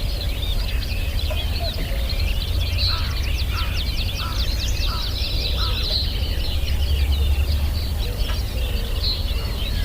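Many birds chirping and chattering at once, with a run of about five short, lower calls evenly spaced around three to four seconds in, over a steady low rumble.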